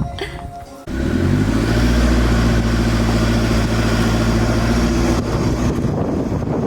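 Car driving: the engine note rises briefly as it picks up, then holds steady under road noise, easing off about five seconds in.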